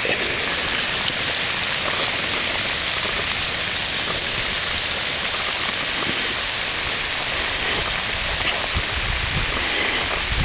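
Steady, loud hiss of rushing water, with low bumps on the microphone near the end.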